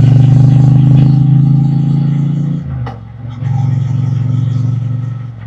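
Triumph Bonneville T120's 1200 cc parallel-twin engine and exhaust pulling under throttle, its pitch rising slightly. About two and a half seconds in the throttle closes, the sound dips with a click, then the engine runs on again at lower revs.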